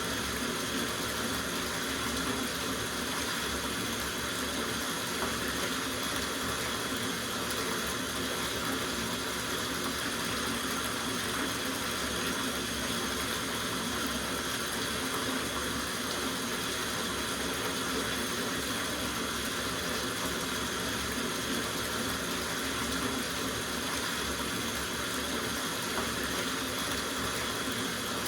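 Tap water running steadily into a soaking bathtub.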